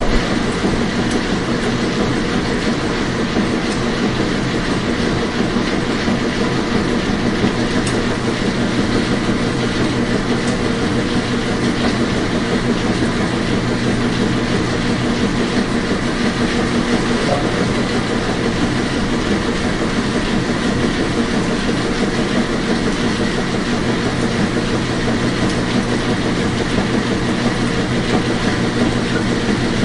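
Washing machine running steadily: an even whirring hum with a dense, fine rattle.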